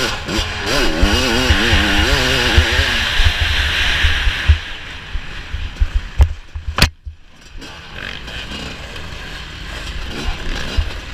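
Off-road dirt bike engine revving up and down quickly over heavy wind rush on the microphone. It eases off about four and a half seconds in, followed by two sharp knocks and a quieter stretch before the engine picks up again near the end.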